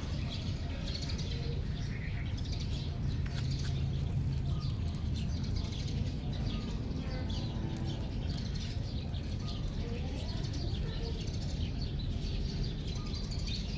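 Small birds chirping again and again in the background over a steady low rumble.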